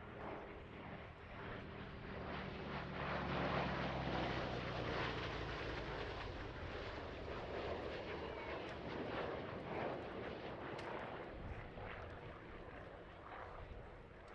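An airplane flying past at an airshow. The engine sound swells to a peak about four seconds in, with a steady low drone at first, then slowly fades away.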